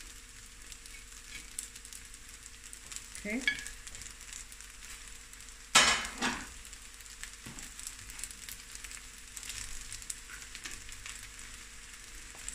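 Garlic-chilli prawns and rice sizzling in a steel pan with a fine, steady crackle, stirred about with a wooden spoon. Two sharp knocks about half a second apart come a little past halfway.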